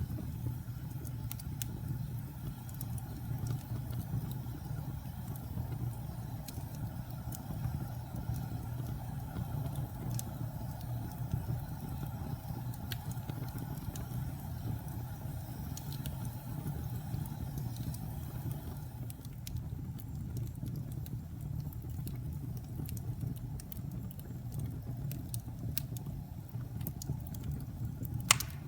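Fire in a fireplace burning with a steady low rumble and scattered crackles, with one sharp, louder pop near the end.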